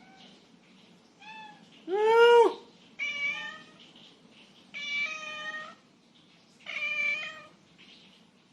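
Domestic cat meowing five times, the loudest call about two seconds in: hungry meows begging for food.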